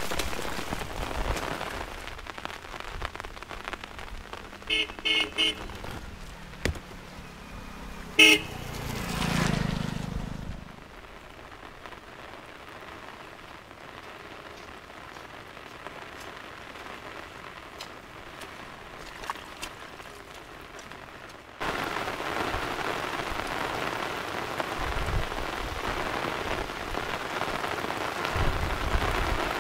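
Steady heavy rain falling. A few short toots sound about five seconds in and another just after eight seconds, followed by a low rumble that swells and fades. The rain grows suddenly louder about twenty-two seconds in.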